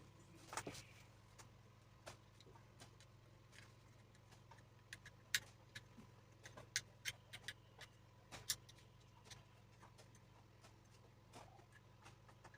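Irregular light clicks and taps from hands working small radiator parts, over a faint steady hum; two clicks, about five and eight seconds in, are louder than the rest.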